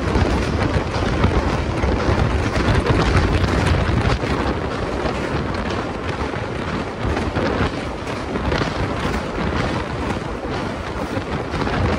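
Wheels of an Indian Railways LHB passenger train rumbling and clattering over the rails as it crosses a steel girder river bridge, with wind buffeting the microphone held outside the coach.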